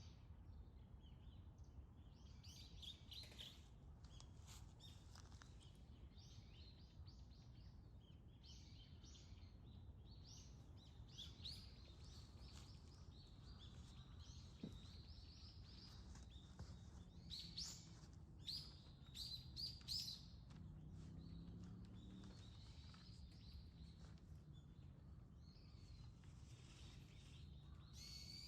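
Small birds chirping and calling faintly in quick scattered notes over a steady low background rumble, the chirps coming thicker and louder about two thirds of the way through.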